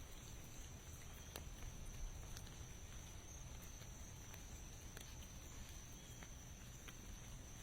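Light rain: a faint steady hiss with scattered single drops ticking irregularly, over a low rumble.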